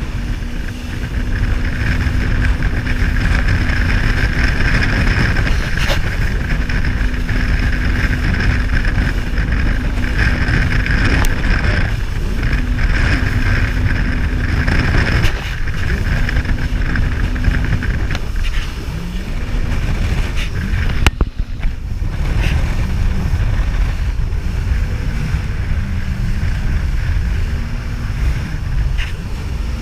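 Jet ski engine running under way, over a heavy rumble of wind and water on the microphone. Its steady note drops away and comes back several times in the second half, with a brief sharp break a little after twenty seconds.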